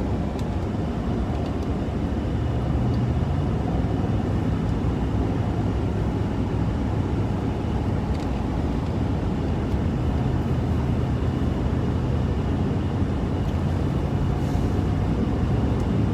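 Steady drone and rumble of a moving truck, heard from inside the cab: engine and road noise at an even level.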